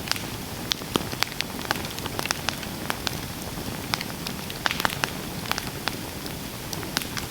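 Campfire burning, the wood crackling with irregular sharp pops, several a second, over a steady hiss.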